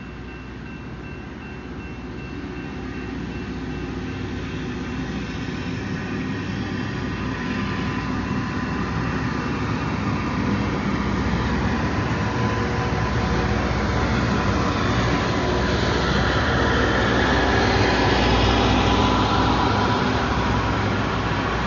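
Loram rail grinder train approaching and passing a grade crossing, its engines and wheels growing steadily louder until it is going by. The crossing bell rings early on and is soon drowned out by the train.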